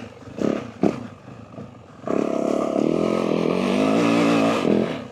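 Yamaha WR450F dirt bike's single-cylinder four-stroke engine, quiet at first, then opened up hard about two seconds in, running loud for about two and a half seconds with the pitch bending before it drops off.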